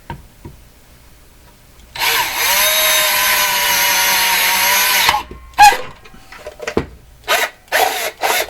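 Electric hand drill running steadily for about three seconds, drilling a hole through a speaker enclosure to pass a wire. Several short, sharp noises follow.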